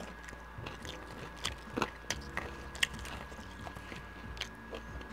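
A person chewing a mouthful of bacon cheeseburger close to the microphone, with a few sharp mouth clicks between about one and a half and three seconds in.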